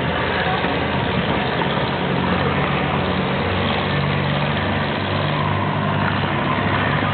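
River ferry boat's engine running steadily, with a low hum that shifts slightly in pitch around the middle.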